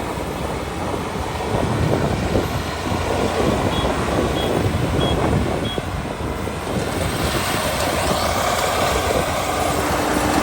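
Kubota ER572 combine harvester's 72-horsepower engine and threshing machinery running steadily, with four short high beeps a little past the middle. From about seven seconds in, a brighter hissing rush rises over the machine noise.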